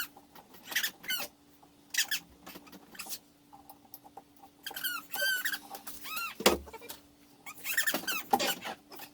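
A baby's high-pitched squeals and babbling in short bursts, with wavering pitch, and a single thump about six and a half seconds in, over a faint steady hum.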